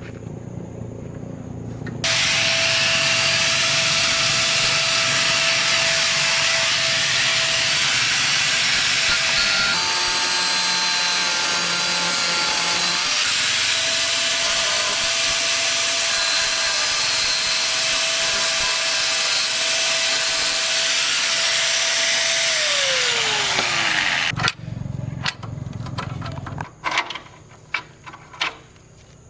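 A handheld power tool running under load for about twenty seconds: a harsh, hissing noise over a steady whine. The whine shifts in pitch for a few seconds partway through, then falls away as the tool winds down and stops. A handful of knocks and clicks follow.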